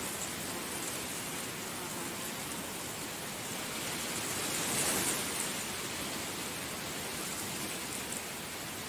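Heavy rain falling steadily, a dense even hiss that swells briefly about halfway through.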